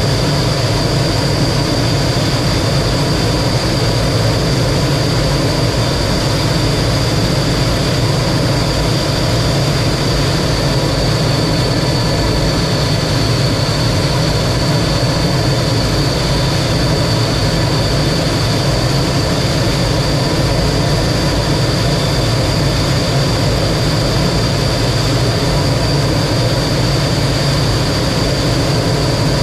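T-33 jet trainer's single turbojet engine running steadily in flight: a constant loud roar with a thin high whine held on top.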